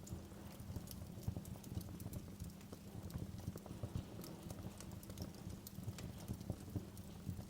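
Wood fire burning in a fireplace: a low steady rumble of flames with irregular crackles and small pops.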